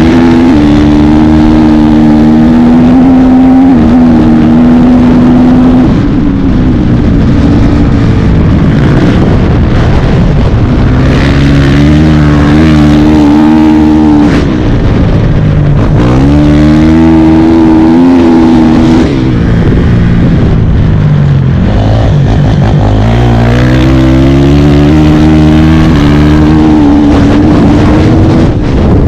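Dirt bike engine running hard, its pitch climbing and dropping back several times as the rider works the throttle and shifts.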